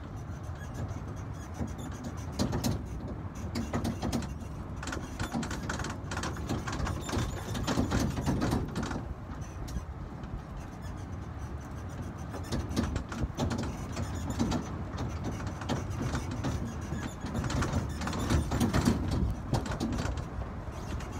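Running noise of an open-sided train carriage on the move: a steady low rumble with frequent rattles and knocks.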